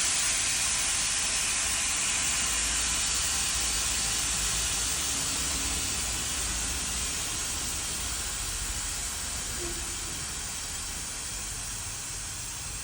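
A steady hiss that slowly grows quieter.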